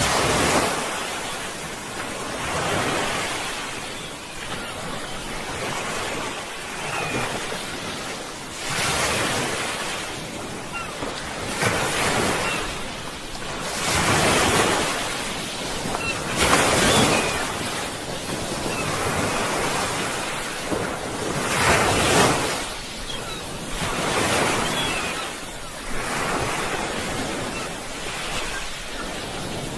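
Sea waves breaking on a shore, one surge after another every two to three seconds, each swell of noise rising and falling away.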